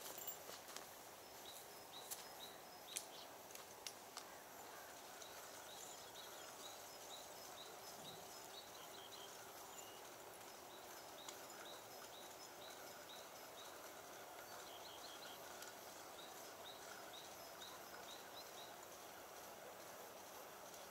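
Faint ambient hush with a small bird's short high chirps repeating two or three times a second through most of it. A few sharp clicks come in the first few seconds.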